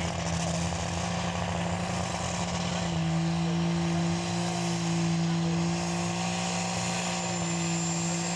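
A super stock pulling tractor's turbocharged diesel engine runs under load as one steady, loud drone that dips slightly in pitch about three seconds in. A faint high whistle comes in near the end. The engine is not coming up to full RPM.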